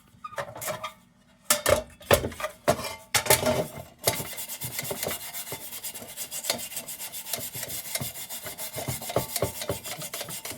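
A brush scrubbing and scraping flaky silver spray paint off a lantern's painted metal body. There are a few separate scrapes at first, then about four seconds in a fast, steady scrubbing.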